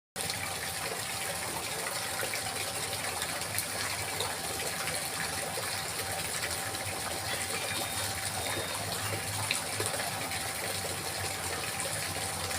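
Steady trickling, splashing water, running on without a break, with a faint steady tone underneath.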